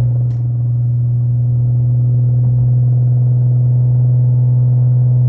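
Infiniti Q50 3.7's V6, fitted with a loud aftermarket exhaust and test pipes, running at a steady engine speed, heard from inside the cabin as a steady low drone that holds its pitch.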